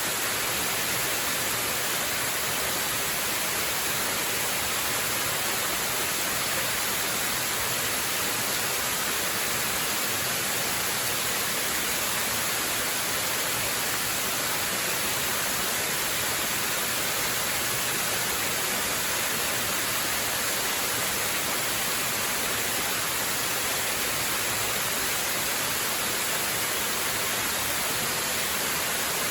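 Waterfall: water falling and rushing in a steady, unbroken hiss, even throughout and strongest in the high register.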